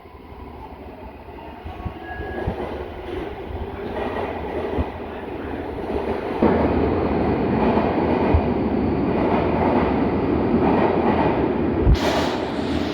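MARTA rapid-transit train approaching and growing steadily louder over about six seconds, then running loud and close with the rumble and clatter of wheels on rail. Near the end a knock comes, and a sudden high hiss sets in.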